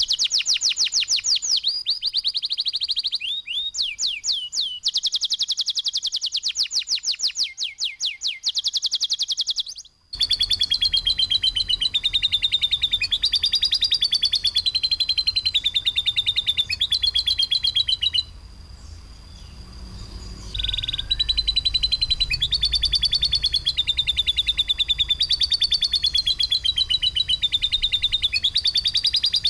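Songbird masteran recording: rapid, harsh bursts of fast-repeated high sweeping notes, run together in long trills. It breaks off abruptly shortly before ten seconds in, resumes over a low rumble, and drops briefly about two-thirds of the way through before the trilling returns.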